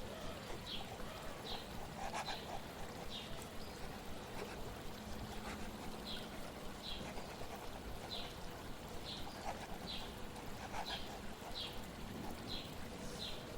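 A small bird chirping over and over, short high chirps about one to two a second, over a steady wash of flowing water.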